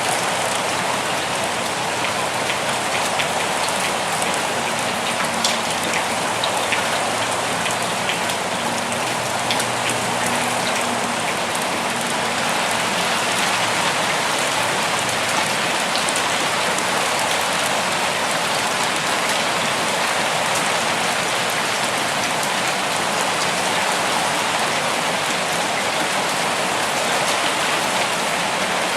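Steady rain falling in a forest, a dense even hiss of drops with faint scattered individual drip ticks.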